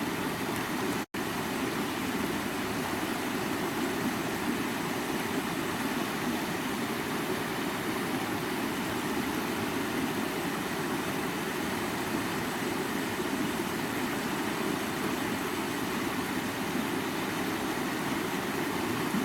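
Steady rushing of a creek's running water, with a split-second silent gap about a second in.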